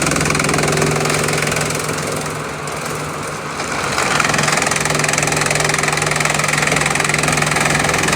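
Engine-driven bamboo chipping machine running steadily, its noise easing off briefly around two to three seconds in and then picking up again.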